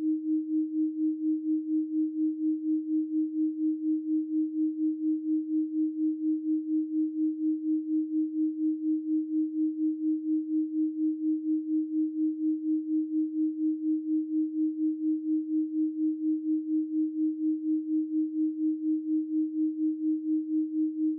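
Synthesized 312 Hz pure sine tone, held steady at one pitch, its loudness pulsing evenly about four times a second.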